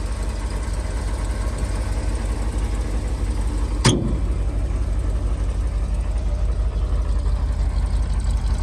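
1972 Chevrolet C60 truck's 366 big-block V8 idling steadily, running smoothly now that its carburetor bowls, which were leaking fuel, have been resealed. A single sharp click comes about four seconds in.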